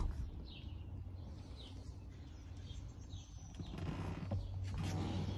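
A few faint, short, downward-sliding bird chirps over a low steady hum.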